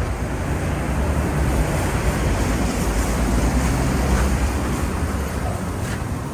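Wind rumbling on the microphone: a steady low noise that swells and eases slightly, with a faint tap near the end.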